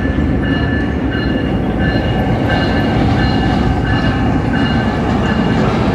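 Pakistan Railways passenger train rolling into the station behind its diesel locomotive: a steady rumble of wheels and engine, with short high squeals coming and going over it.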